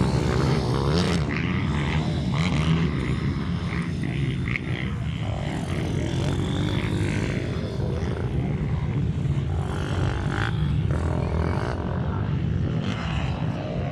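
Minibike engines running with a steady buzz, their pitch wavering as the throttle rises and falls.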